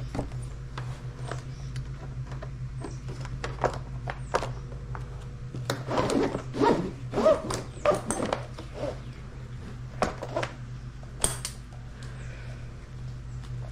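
Nylon strap being fed through the slots of hard plastic sled pieces: scattered knocks, taps and scraping, busiest about six to eight seconds in, with a sharp click near the end, over a steady low hum.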